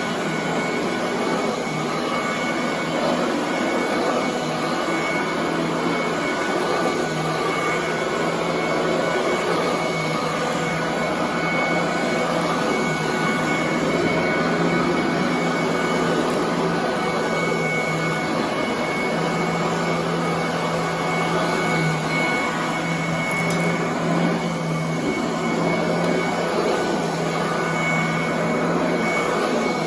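Commercial upright vacuum cleaner running steadily on carpet, a constant rushing noise with a low motor hum and a high whine.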